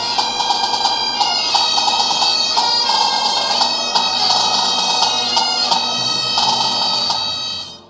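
Bagpipe music: a quick melody over a steady drone, fading out at the end.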